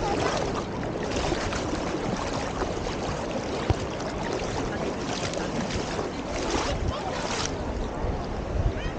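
Beach ambience: a steady wash of surf with wind rumbling on the microphone, swelling briefly a few times.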